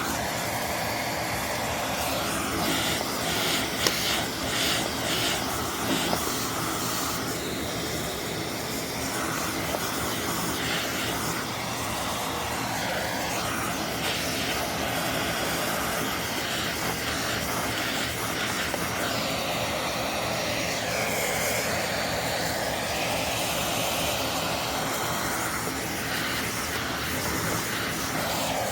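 Vacuum cleaner motor running steadily with a whining airflow rush, with a few short clatters in the first several seconds.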